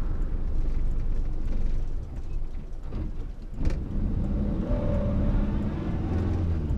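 1962 Morris Minor's BMC A-series four-cylinder engine heard from inside the cabin while driving, with a brief lull about halfway and a sharp click, then a stronger engine note. The engine is running rough and misfiring, which the owner puts down to the coil, a plug lead or a bad connection.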